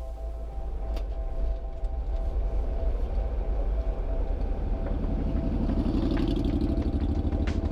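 Classic car's engine running while driving, a steady low drone that grows louder over the first couple of seconds; its note climbs about five seconds in.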